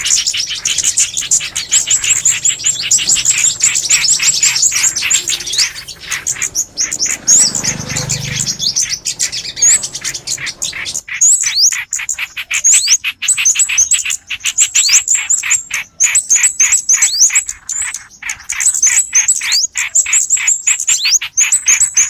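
Recorded calls of small songbirds played as a trapping lure: dense, rapid high chirps and twitters, some notes sweeping quickly up or down, repeating without pause. A low dull rumble sits under the calls about eight seconds in.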